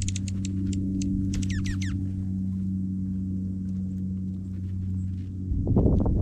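Juncos giving sharp chip calls and a quick run of descending twittering notes in the first two seconds, over a steady low hum. A low rumble rises near the end.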